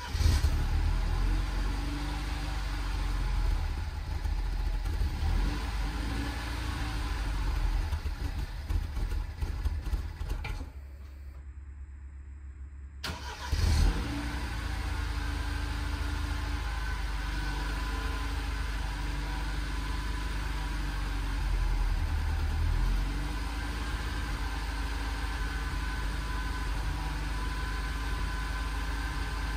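BMW N13 1.6-litre turbo four-cylinder heard at the exhaust on a cold start. It catches and runs unevenly for about ten seconds, stops, then starts again a few seconds later and keeps running steadily. The hard cold starting comes from a faulty coolant temperature sensor that reads the cold engine as already warm, which throws off the ECU's fuel mixture.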